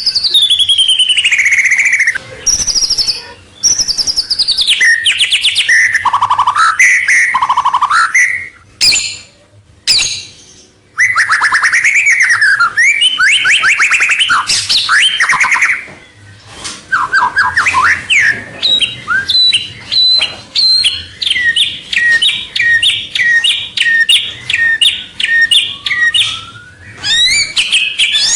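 White-rumped shama (murai batu) singing loud, varied song: falling whistles, fast trills and sharp chips in rapid phrases with brief pauses. In the second half it repeats one quick two-note figure over and over for several seconds.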